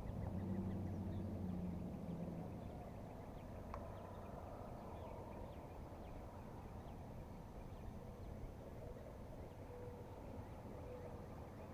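Faint outdoor lake ambience, with a low engine-like hum in the first two seconds or so and a few small ticks.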